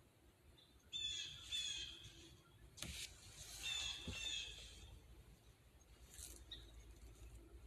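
A bird calling in two short runs of harsh, slightly falling calls, about a second in and again around three and a half seconds in, with a single sharp click just before the second run.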